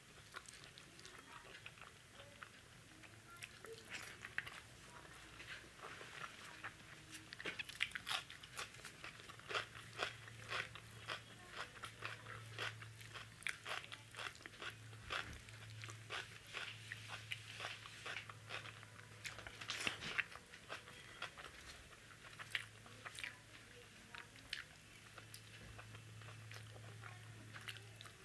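Close-up eating sounds of rice, dal and vegetables eaten by hand: irregular chewing and crunching with many small wet clicks as fingers mix the rice and carry mouthfuls to the mouth. A steady low hum comes in about ten seconds in.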